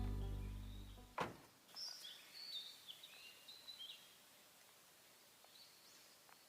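A song fading out, then a single click about a second in, followed by a few faint high birds' chirps over the next two seconds against a quiet outdoor hiss.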